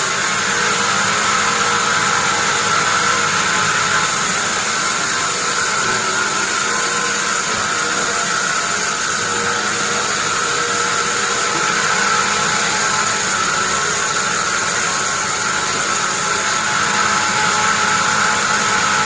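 Bandsaw mill running steadily: an even, loud machine noise with a steady high whine.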